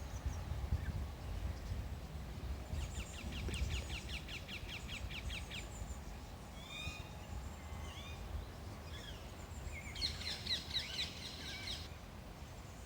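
Wild birds calling: two fast trills of rapidly repeated high notes, the first about three seconds in and the second near ten seconds, with scattered short chirps between them, over a steady low rumble.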